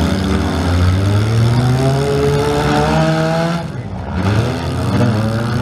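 Several compact demolition-derby cars' engines running hard as the cars shove into each other, one revving up in pitch for about a second and a half near the middle. The engine sound thins out for a moment shortly after, then picks up again.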